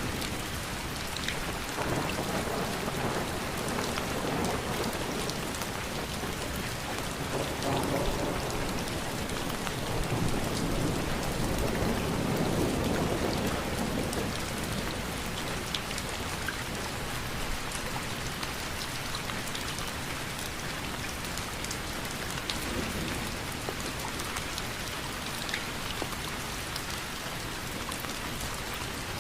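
Steady rain falling, with slow low rumbles of thunder swelling and fading, the loudest a little before halfway through.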